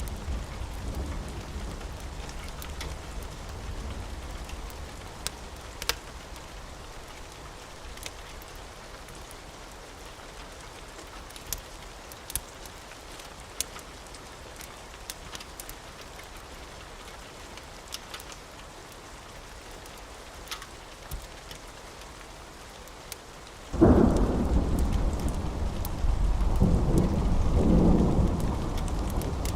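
Steady rain with a few scattered sharp pops, then a sudden loud clap of thunder near the end that rolls on as a low rumble.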